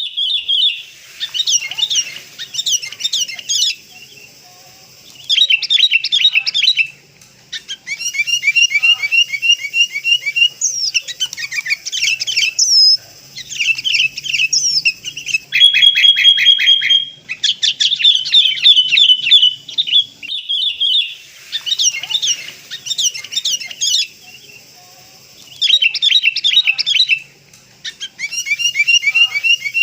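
Sooty-headed bulbuls chattering: runs of rapid, high chirping calls a few seconds long, broken by short pauses. This is a lure recording, played to draw wild bulbuls in.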